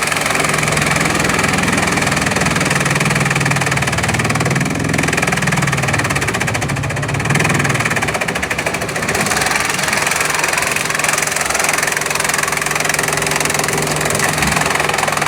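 Bamboo-chipping machinery running steadily: a continuous mechanical noise over a low hum, the sound of bamboo being crushed into chips. The low hum eases off about eight seconds in and comes back a couple of seconds later.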